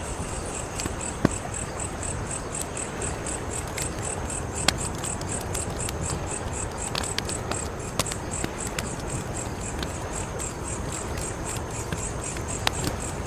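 Wood fire burning with a steady low rustle and a few sharp crackling pops. Over it, a cricket chirps steadily in a high, even rhythm of about four pulses a second.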